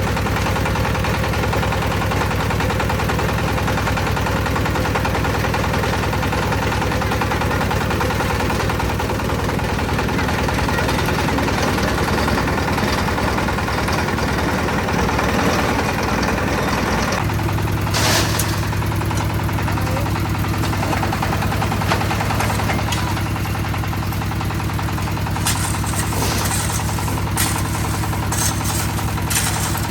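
Concrete mixer's engine running steadily. About halfway through its sound changes to a steadier, lower hum, and near the end a series of sharp knocks sound over it.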